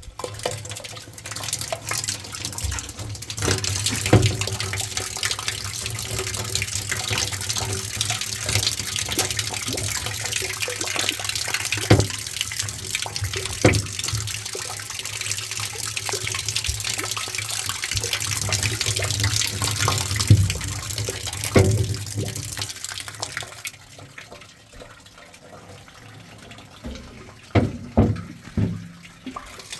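A steady rush of water with occasional knocks, which stops abruptly about 23 seconds in; a few separate knocks follow near the end.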